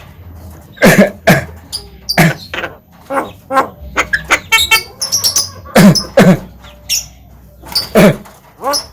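Javan myna calling in a string of short, harsh, voice-like notes, whistles and a quick chattering run about halfway through.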